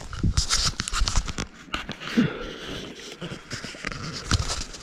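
Footsteps and movement through dry forest underbrush: irregular crackling, snapping and rustling of twigs and debris.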